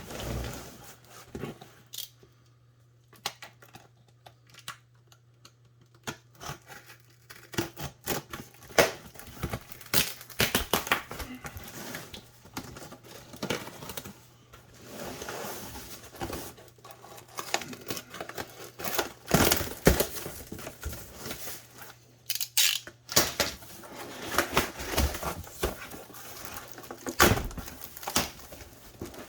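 A cardboard shipping box being cut open with a utility knife: tape tearing, cardboard rasping and flaps rustling, with many irregular clicks and knocks. A faint low hum runs underneath.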